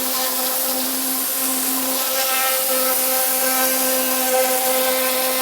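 Pressure washer running and spraying: a steady, loud hiss of the water jet over a constant pitched hum from the machine.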